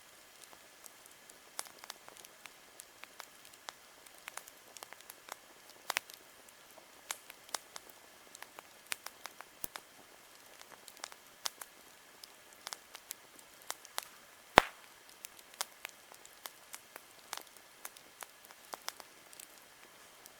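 Wood campfire crackling: irregular sharp pops and snaps of burning wood, with one much louder snap about two-thirds of the way through.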